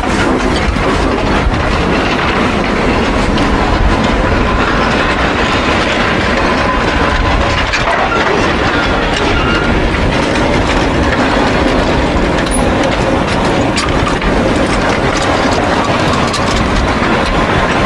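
A train running on the rails, a steady loud rolling noise.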